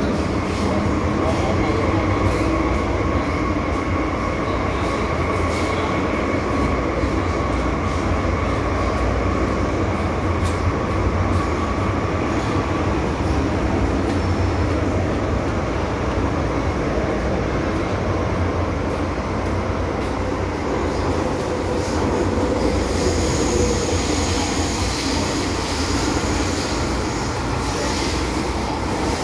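MTR M-Train electric multiple unit running at speed, a steady rumble of wheels on rail. A steady whine fades out about halfway through, and hissier high-pitched noise comes up near the end.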